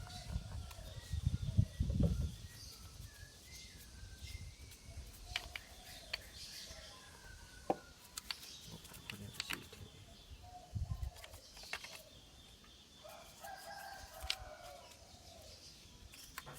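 A rooster crowing, with one long falling call late on, among scattered sharp clicks and knocks and a low rumble in the first couple of seconds.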